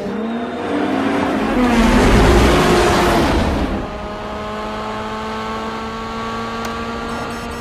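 Racing car engines at high revs: a car sweeps past in a loud rush about two seconds in, then one engine holds steady high revs, its pitch creeping slowly upward.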